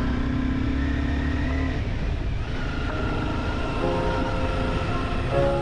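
Motor vehicle engine and road noise, a steady low rumble with a held hum, heard while driving. Background music begins to come in near the end.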